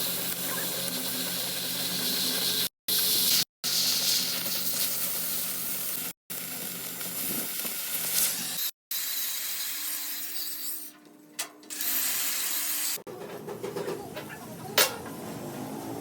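Stick-welding arc crackling and hissing, cut off abruptly several times.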